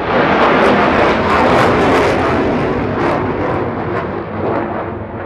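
Sukhoi Su-30 fighter jet flying past overhead, a loud jet engine noise that swells in the first seconds and then slowly fades. It is very loud, and it is heard as having a musical pitch.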